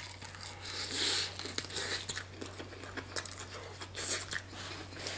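Biting into and chewing crispy fried chicken wings: the crackly crust crunches in many small, irregular clicks and crackles.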